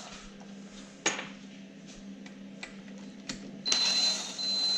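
Hand tool working the exhaust manifold bolts of a two-stroke snowmobile engine: a few separate clicks and knocks, then about a second of fast ratcheting near the end, over a steady low hum.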